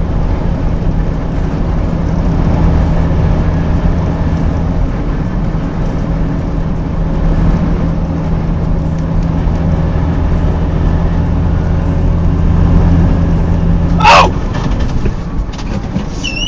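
Heavy truck engine running steadily with a low, even hum. A brief, loud, sharp sound with a wavering pitch cuts in about fourteen seconds in.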